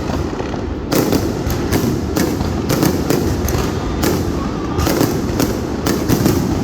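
Aerial fireworks going off in rapid succession: many sharp bangs and crackles, several a second, over a continuous low rumble of bursts and their echoes.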